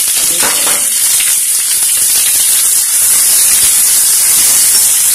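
Green beans, carrots and cauliflower sizzling in hot oil in a wide pan as they are stir-fried and stirred with a spoon: a steady hiss.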